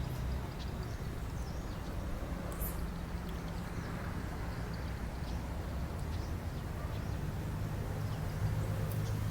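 Low, steady droning hum with faint scattered ticks above it. The hum grows slightly louder near the end.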